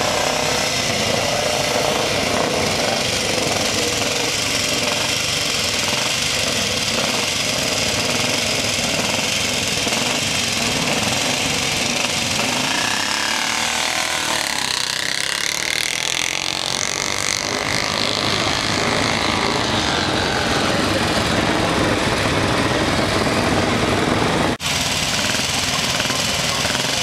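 1933 500cc Norton International single-cylinder motorcycle engine running at the start line, with the pitch rising and falling around the middle as it is revved. The sound drops out for a moment near the end.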